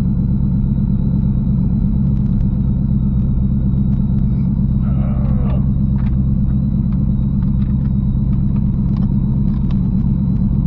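1986 Ford Mustang Fox-body engine idling steadily after starting on a newly fitted MSD Ultra 6A ignition box.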